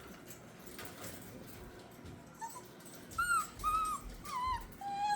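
Six-week-old puppies whining, a run of about five short high-pitched whines in the second half, begging for more food.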